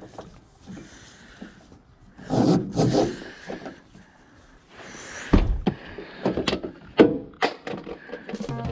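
A series of sharp knocks and clicks with short rustling scrapes, and one heavy thump about five seconds in: hard objects being handled and set down.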